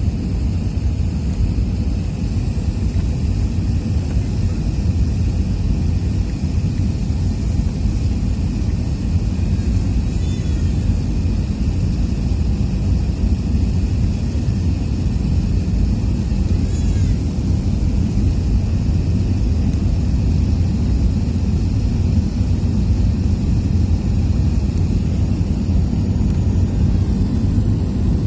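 Jet airliner's engines during takeoff: a loud, steady low rumble with a hiss of airflow over it.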